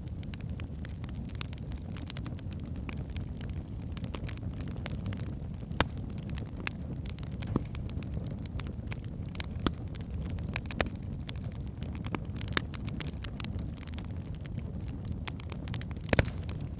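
Wood fire burning in a fireplace: a steady low rumble of the flames with irregular sharp crackles and pops from the logs, a few louder pops scattered through.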